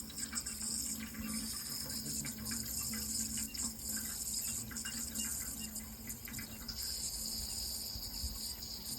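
Water running steadily, with small scattered splashing ticks over a steady high-pitched hiss.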